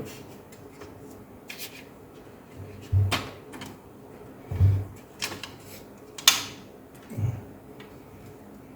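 Scattered light clicks and knocks of small laptop parts and casing being handled during disassembly, about half a dozen separate taps with the sharpest about six seconds in.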